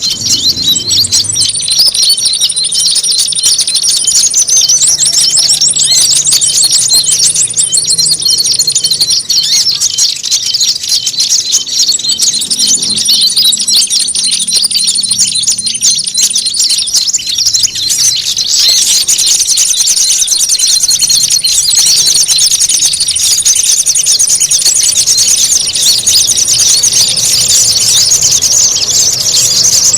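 Small songbirds' calls layered into a continuous, noisy chatter of rapid high chirps and trills, with a thin high whistle held above it in long stretches. This is a bird-trapping lure recording, a 'ribut' (noisy) mix built to draw in small birds.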